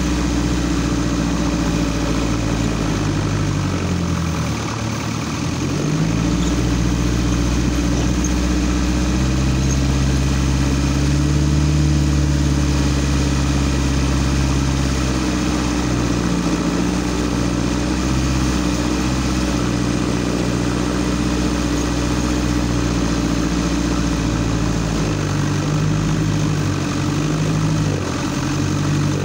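Off-road vehicle's engine running under changing throttle while driving a rough dirt track, heard from the driver's position. The revs dip and pick up again about five seconds in, hold fairly steady through the middle, and rise and fall again near the end.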